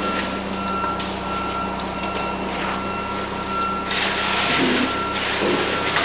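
A truck's reversing alarm beeping steadily, about one and a half beeps a second, over a running diesel engine. A rushing noise comes in about four seconds in.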